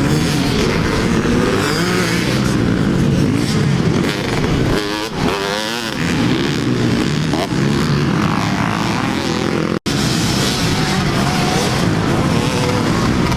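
Motocross dirt bike engines racing on the track, revving up and down over each other, with one engine's pitch wavering up and down about five seconds in. The sound drops out for an instant near the ten-second mark.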